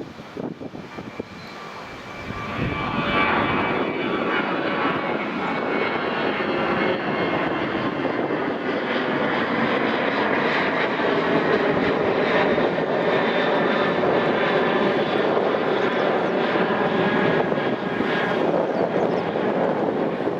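Boeing 737-800 jet engines (CFM56-7B turbofans) at takeoff thrust. The sound swells up about two seconds in, then holds a loud, steady jet noise with fan whine, which dips in pitch soon after it swells.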